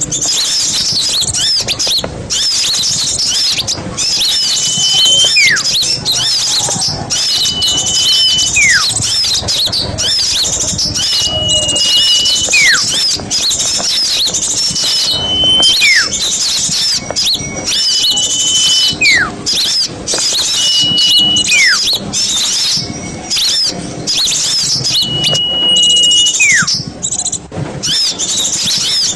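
A flock of small birds chattering busily and high, with one call repeated about every two to three seconds: a short held high note followed by a steeply falling whistle.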